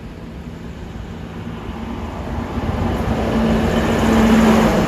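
Electric passenger train approaching and running in alongside the platform, its rumble growing steadily louder, with a steady low hum that comes up strongest near the end.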